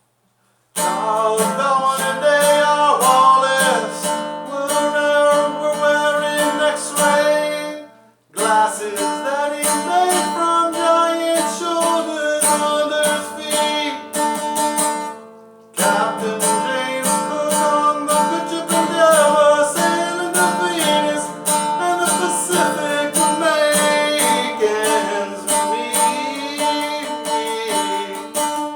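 Acoustic guitar music, plucked and strummed, starting abruptly about a second in and cutting out briefly twice, near 8 s and near 16 s.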